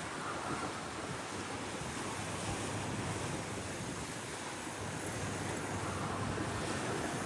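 Steady wind on the microphone and surf noise, an even hiss without tones that slowly grows a little louder.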